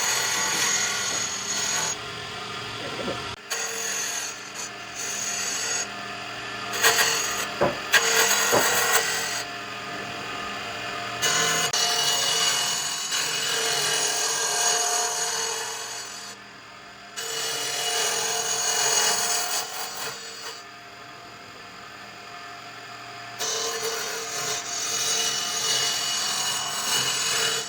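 Woodworking tools rubbing and rasping against wood, with a steady motor tone in places, in several stretches that change abruptly. There are a few sharp knocks about a third of the way through.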